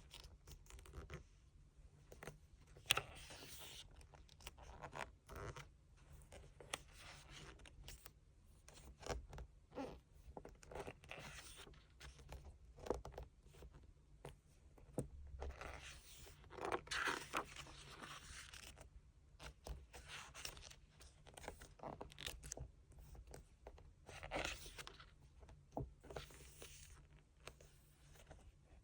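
Paper and plastic of a photobook album and its inserts being handled: irregular rustling and scraping with scattered small clicks and taps, the sharpest tap about three seconds in.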